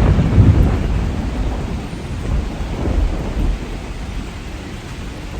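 Deep thunder rumble, loudest at the start and slowly fading, over a steady rushing hiss of rain.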